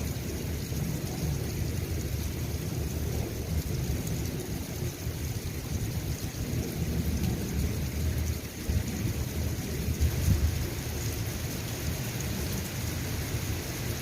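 Steady rain falling, an even hiss of drops, over a continuous low rumble.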